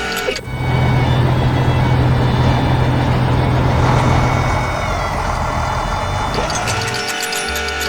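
A heavy truck engine sound effect runs steadily with a strong low hum, dropping a little in level about five seconds in. Background music cuts out at the start and returns near the end.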